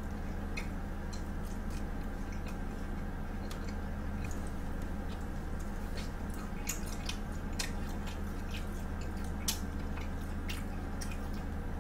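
Close-miked chewing and biting of pizza, with many small mouth clicks scattered throughout, over a steady low hum.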